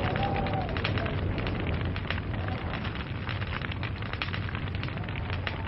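Log fire crackling: dense, irregular pops and snaps over a steady low rumble of burning wood.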